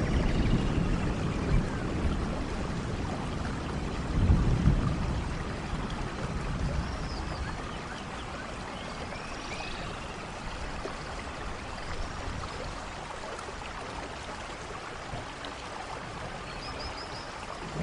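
Steady rainfall in a forest, with low rolls of thunder rumbling near the start and again about four seconds in, then easing to a quieter, steady rain.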